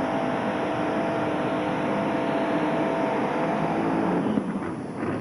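Modified pulling tractor's engine running hard at steady high revs during a pull, with a dense noisy haze under it. The engine note fades and drops away near the end.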